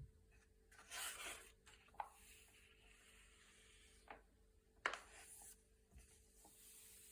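Thick glossy paper pages being turned by hand, faint: a few soft swishes with sharp flicks of the paper, the loudest a snap a little before five seconds in.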